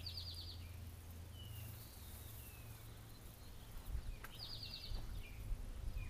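A small bird sings a short, rapid, high trill twice, about four seconds apart, with a few fainter falling chirps in between, over a steady low hum and some low bumps in the last two seconds.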